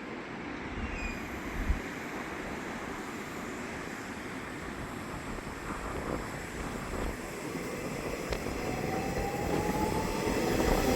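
Nishitetsu electric train approaching, its running noise growing steadily louder, with a whine rising in the last few seconds.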